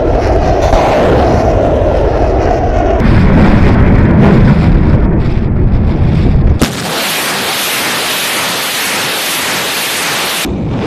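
Cruise missile launch noise: a loud, continuous rushing sound that deepens about three seconds in, then cuts abruptly a little past halfway to a thinner, hissing rush.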